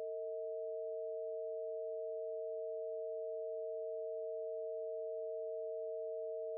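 Two pure sine tones sounding together and held steady: the 460.8 Hz root Bb and the E at about 647 Hz of the Harmonics of Nature tuning scale, an augmented fourth (tritone) interval. It was meant to be a perfect fifth; the interval played is the wrong one.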